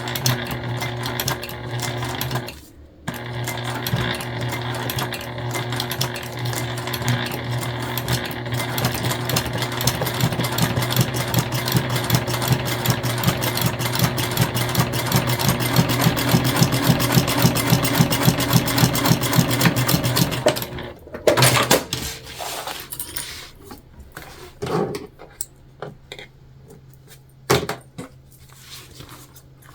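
Sewing machine running steadily, stitching a seam through jelly vinyl, with a short pause about three seconds in. It stops about 21 seconds in, followed by a few light clicks and handling sounds.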